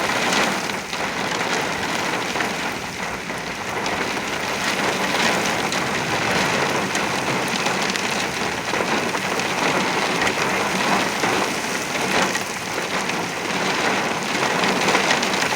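Very heavy thunderstorm rain pouring down in a steady, even hiss from a derecho-type windstorm.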